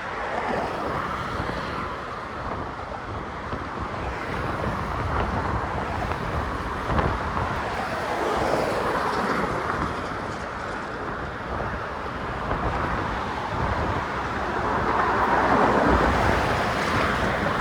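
Steady motor traffic passing on the bridge roadway, mixed with a low rumble of wind buffeting the microphone. It grows a little louder towards the end.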